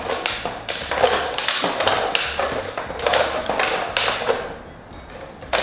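Raffle barrel being turned, paper ticket stubs tumbling and swishing inside it with clicks and rattles, in surges about once a second that fade near the end.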